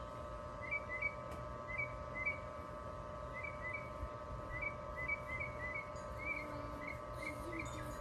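A small bird chirping over and over in short quick notes, often two or three together, over a steady low hum.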